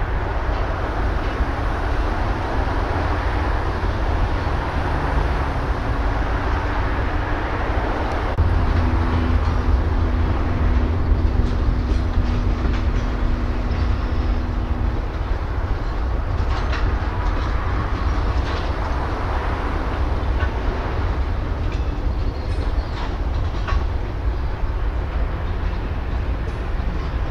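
A string of freight cars rolling slowly through a rail yard: a steady low rumble, with scattered wheel clicks over the rail joints, mostly in the second half.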